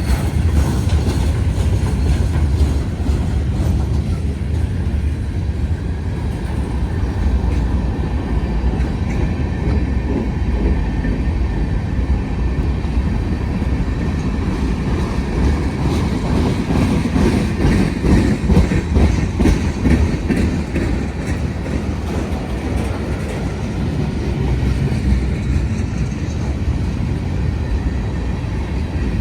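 Union Pacific freight train cars rolling past, a steady low rumble with the clickety-clack of wheels over the rail joints.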